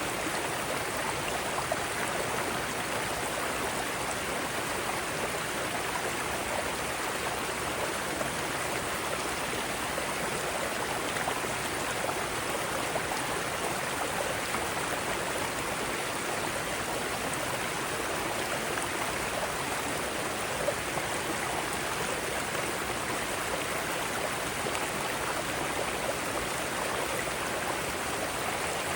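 Mountain stream water flowing and splashing over rocks, a steady, even rushing with small splashes scattered through it.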